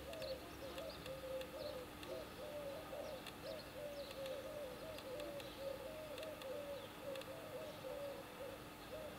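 A bird calling a long, even series of short low hooting notes, about three a second.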